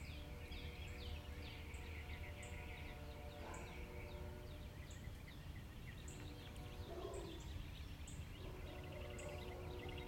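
Outdoor birdsong: several birds chirping, with one short, high note repeating about once a second, over a steady low rumble.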